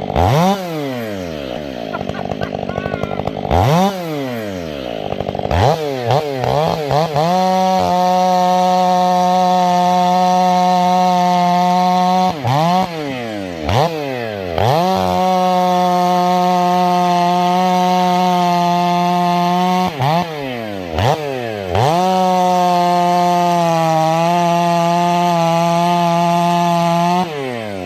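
Two-stroke chainsaw bucking a log. It is revved in quick blips several times, then held at full throttle through three long cuts, the revs dropping and rising again between them and sagging slightly under load during the last.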